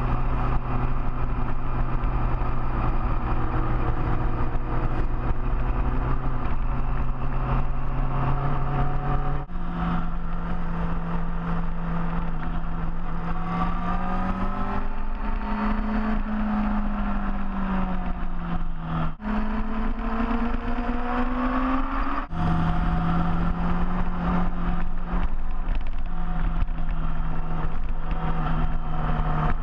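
Large motorcycle engine running under way, its note holding, rising and falling with road speed. Three times, about 9, 19 and 22 seconds in, the note breaks off briefly and comes back at a different pitch, as with gear changes.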